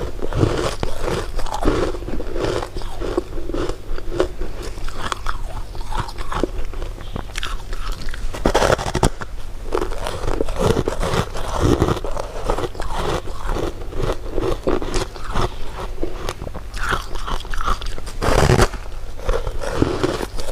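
Close-miked eating: candy being bitten and chewed with constant crunching. Two sharper, louder bites come about nine seconds in and near the end.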